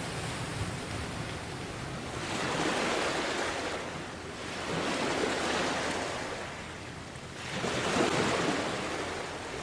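Sea waves washing onto a beach, the surf swelling and easing every two to three seconds.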